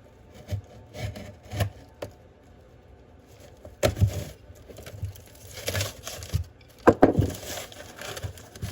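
Paper wrapping being torn and peeled off a spent firework cake, in irregular rustling bursts, with knocks from the cardboard cake being handled.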